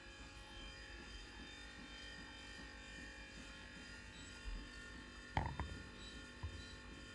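Dog making a faint, steady, buzzing gurgling noise while playing with a toy, with a short louder sound about five and a half seconds in.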